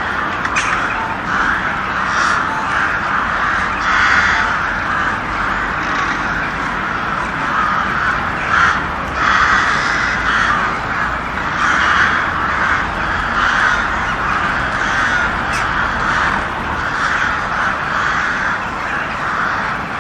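Crows cawing over and over, harsh calls following each other closely and overlapping without a break.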